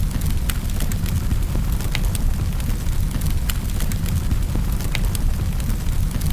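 Wood fire burning in a fireplace: a steady low rumble with sharp crackles and pops at irregular intervals, roughly one or two a second.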